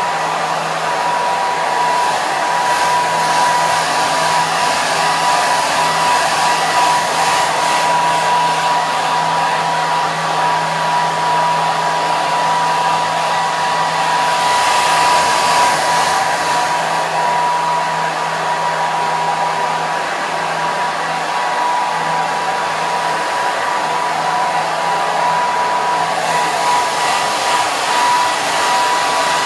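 Hair dryer running continuously: a steady rush of blown air with a constant whine from its motor and fan.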